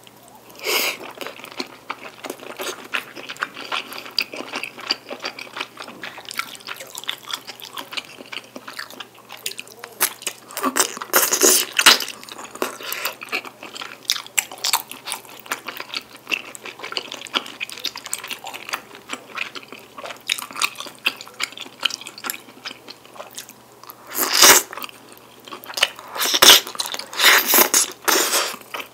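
Close-miked wet chewing of chewy rice cakes and glass noodles in sticky black bean sauce: a steady run of small smacking clicks. There are louder noisy bursts about a third of the way in and twice more near the end.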